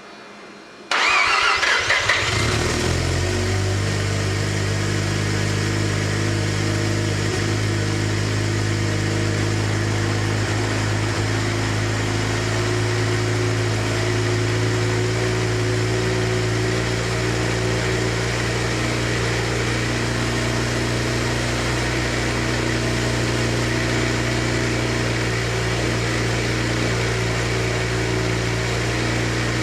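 Mazda RX-7 FC3S's turbocharged 13B twin-rotor rotary engine starting about a second in, then settling into a steady idle.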